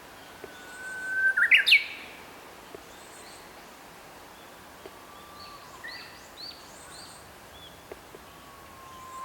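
Young Japanese bush warbler singing. A long held whistle breaks into a loud, quick rising flourish about a second and a half in: the hoo-hokekyo song. Softer, broken notes follow around the middle, and another held whistle starts near the end.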